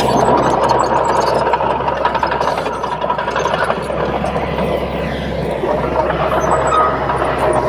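Crawler bulldozer working: its diesel engine runs steadily under load while the steel tracks clatter and rattle, with a thin squeal coming in near the end.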